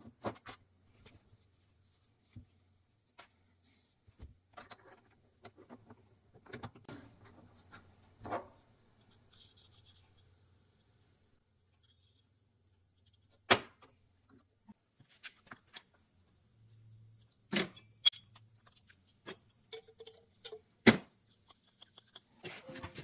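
Scattered light metal clicks and knocks as a piston is worked into its cylinder barrel on a 1967 Porsche 912 flat-four engine, with three sharper knocks, the loudest near the end.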